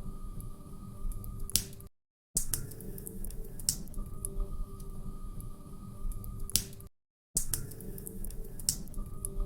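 Log fire crackling in a fireplace, with a low rustling rumble and scattered sharp pops. The sound cuts out completely twice, about five seconds apart, each time restarting the same short looped stretch of fire.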